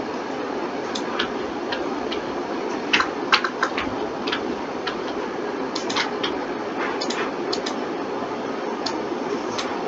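Irregular clicks of a computer mouse and keyboard being worked. There are quick runs of several clicks about three seconds in and again around six and seven seconds. A steady hiss runs underneath.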